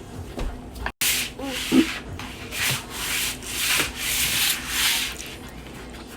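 Noodles being slurped in a run of about five or six hissy pulls.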